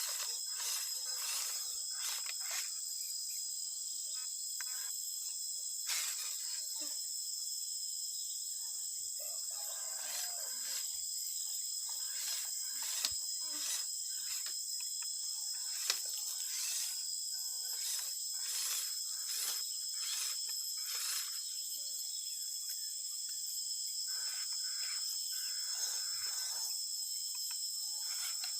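Steady high-pitched chirring of insects, typical of crickets, with frequent short scrapes and clicks throughout.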